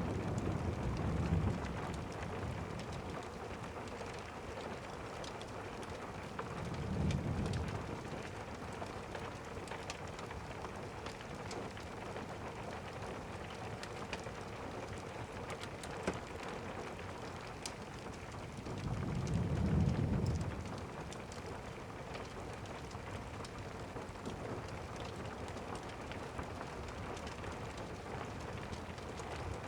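Steady rain, with low rumbles of distant thunder: one dies away at the start, another swells up about seven seconds in, and a longer one comes around twenty seconds in.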